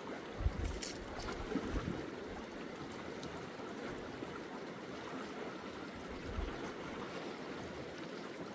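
Steady rush of a flowing river, with a few soft low thumps and brief clicks over it.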